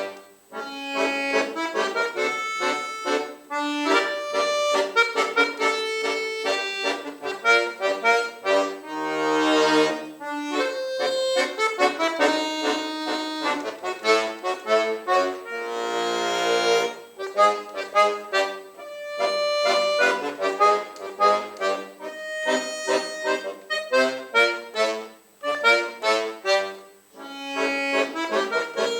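A solo accordion plays a lively piece in short, quick phrases with brief breaks. Full held chords sound at about a third and again past halfway through.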